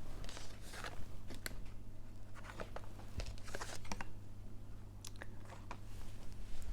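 Tarot cards being handled: soft papery swishes and a scatter of light taps and clicks as cards are moved and laid down, over a low steady hum.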